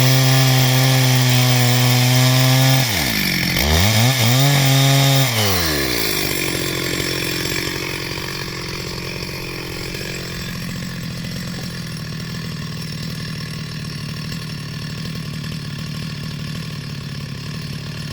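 Chainsaw running at high revs while cutting timber, its note dipping sharply about three seconds in and rising again. About six seconds in it drops back to a quieter, steady idle.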